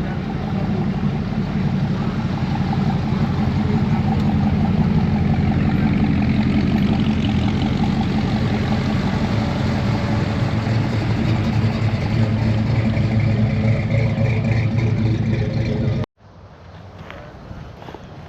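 Car engine running steadily with a strong, deep exhaust note. It stops abruptly about sixteen seconds in, leaving a much fainter background.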